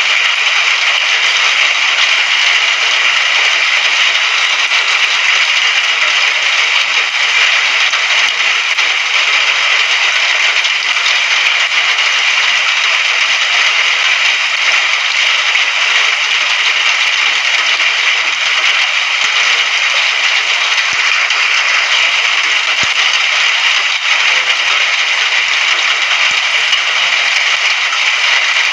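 Steady rain, a dense even hiss that holds level throughout.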